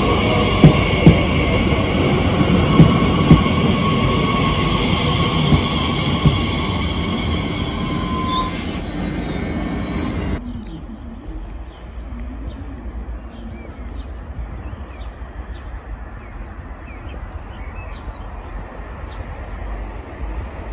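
Transilien electric commuter train passing close by: a steady electric whine, falling slightly in pitch, with the wheels clicking over the rails and a brief high squeal, until the sound cuts off abruptly about halfway. After the cut, a much quieter distant train with faint chirps over it.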